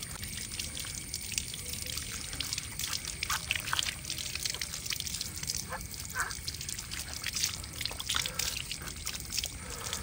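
Water trickling and dripping, with many small irregular drips and splashes over a steady hiss.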